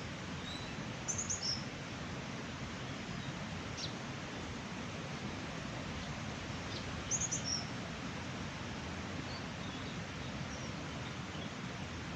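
Small birds chirping in short high phrases, twice clearly, about a second in and about seven seconds in, with a few fainter calls, over a steady background noise.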